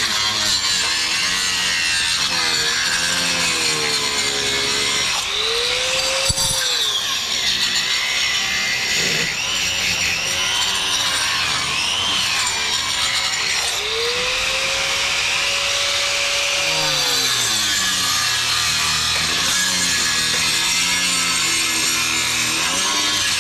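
A handheld power tool cutting steadily, its motor pitch repeatedly sagging and rising again as it bites into the work and eases off.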